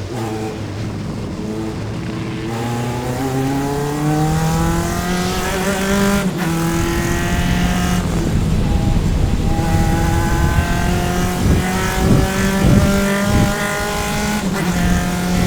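Single-seater race car's engine, heard onboard, accelerating hard under full throttle with its pitch rising. There is a quick upshift about six seconds in, then it pulls on at high revs, with another short break near the end.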